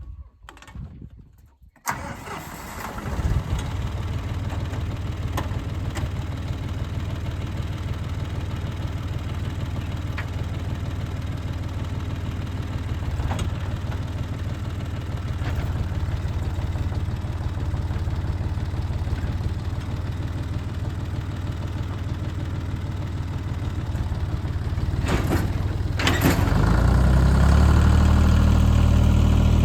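Tractor engine starting up about two seconds in, then running steadily and revving up near the end as it gets ready to pull a sickle-bar haybine.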